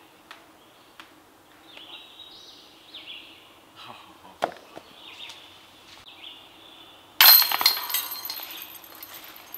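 A disc slamming into the chains of a disc golf basket about seven seconds in: a sudden loud metallic jangle of chains that rings down over about two seconds.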